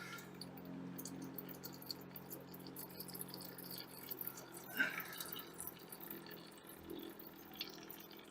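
Small clicks and rustles of objects being handled, with one louder knock about five seconds in, over a steady low hum.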